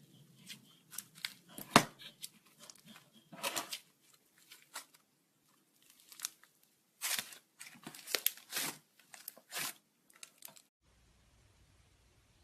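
Slime being squeezed, stretched and poked by hand, making sticky pops, crackles and tearing sounds in irregular bursts. The sounds stop suddenly near the end.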